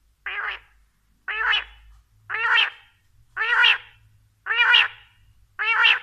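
Quail calling: six short, pitched calls about one a second.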